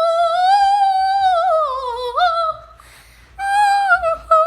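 A girl's high voice singing wordlessly: one long held note that drifts up and then falls, ending about two and a half seconds in, then a second phrase of wavering notes near the end.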